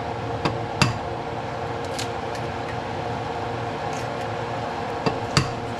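A handful of sharp metallic clinks and knocks, five in all, the loudest near the start and near the end, over a steady mechanical hum.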